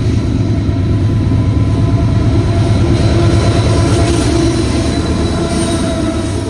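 Freight train passing close by: a loud, steady rumble of railcars rolling over the track, with some thin wheel squeal over it.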